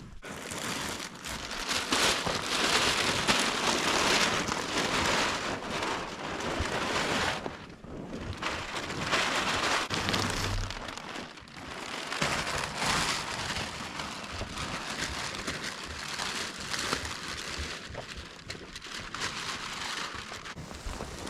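Rain falling, a steady hiss that swells and eases, dipping briefly twice.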